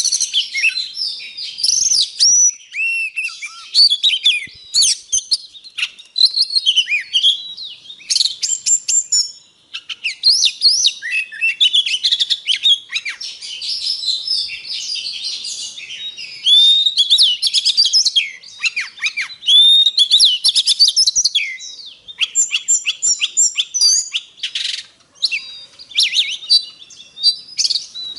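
Oriental magpie-robin singing a long, varied song of clear whistles, slurred rising and falling notes and quick chattering runs, with only brief breaks between phrases.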